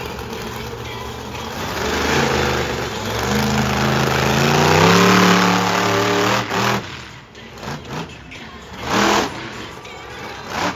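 Monster truck engine revving hard, its pitch climbing for a few seconds and then dropping away about seven seconds in. Brief bursts of noise follow.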